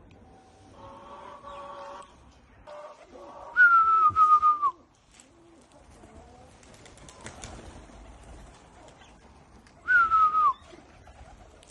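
A person whistling loudly twice: each whistle is a pulsing tone that slides down at its end, the first about three and a half seconds in and the second near the end. A fainter pitched call comes about a second in.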